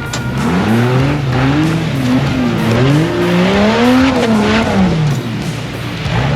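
Off-road vehicle engine revving up and down repeatedly, its pitch rising and falling several times, with a noisy rush of tires working the ground.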